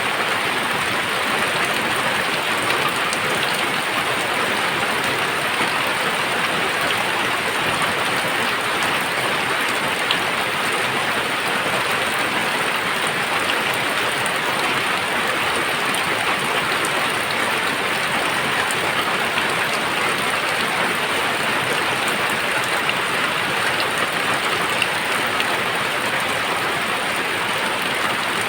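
Very heavy rain pouring down steadily, a dense even hiss with scattered drops.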